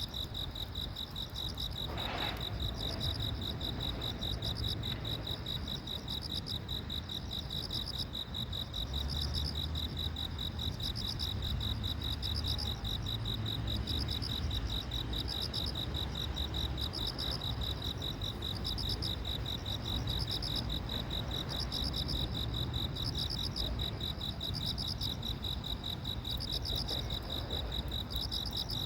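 Insects, crickets by their sound, chirping in a steady fast trill, with a second higher call repeating a little more than once a second over a low outdoor rumble.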